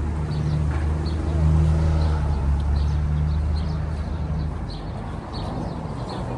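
A motor vehicle's engine running close by in city traffic, a steady low hum that fades away about four and a half seconds in.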